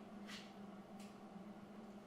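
Near silence: a faint steady low hum with two soft ticks, the first just after the start and the second about a second in.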